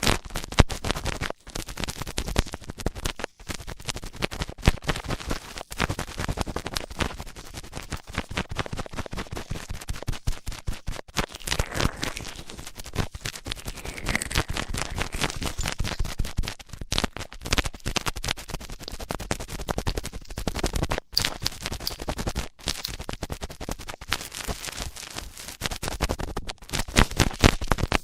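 Close-up ASMR ear-cleaning sounds: rapid, irregular scratching and crackling rubbed against the microphone's ear.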